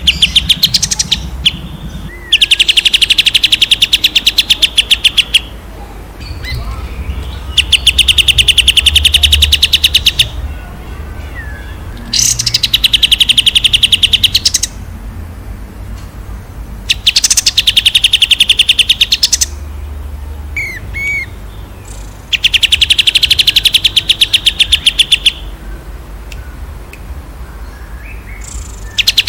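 A songbird giving long rapid-fire trills, the 'tembakan' prized in masteran recordings: five loud bursts of fast, evenly repeated high notes, each lasting about three seconds and coming roughly every five seconds, with softer chirps in between. A faint low hum runs underneath.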